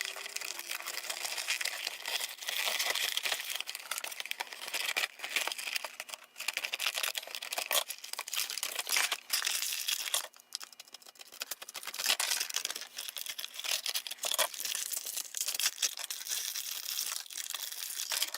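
Toy packaging crinkling and tearing as it is opened by hand: a busy run of crackles with a few short pauses.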